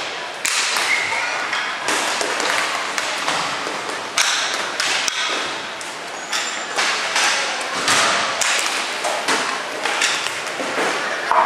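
Ice hockey play in a rink: skates scraping the ice under repeated sharp clacks and knocks of sticks and puck, with the puck hitting the boards now and then.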